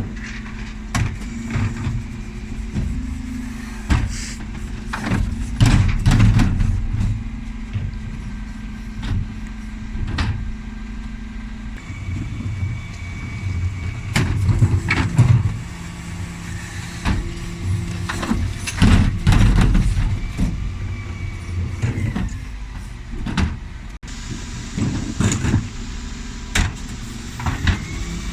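Dennis Elite 6 bin lorry's engine running steadily under repeated knocks and clatters of wheelie bins being worked by its Terberg bin lift. The engine note drops slightly about twelve seconds in.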